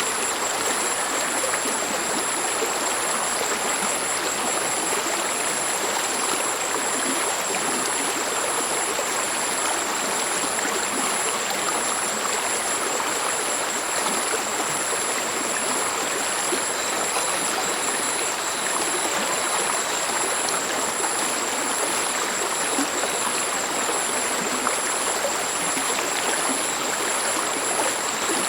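A mountain stream flowing over rocks, a steady, even rush and murmur of running water. Two thin, high-pitched tones with a fast pulse sound steadily above it.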